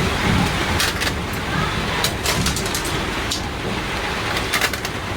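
Steady rushing background noise with scattered sharp clicks and cracks, about a dozen over a few seconds.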